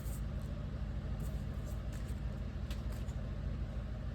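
Steady low hum, with a few faint short clicks of photo paper being trimmed by hand.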